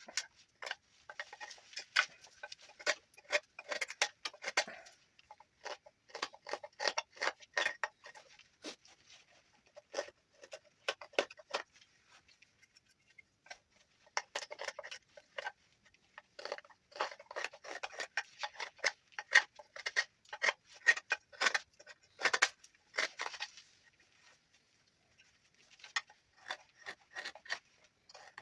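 Knife carving juniper wood: quick, sharp cutting strokes in runs, broken by short pauses.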